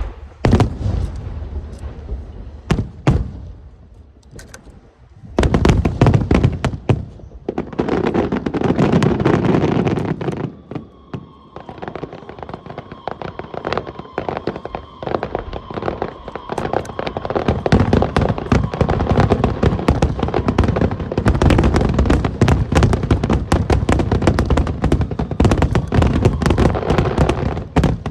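Aerial fireworks display: a barrage of bangs and crackling shells. The bangs come a few at a time for the first few seconds, then almost without a break from about five seconds in. There is a short lull near the middle, where a thin steady whistle sounds over the bursts.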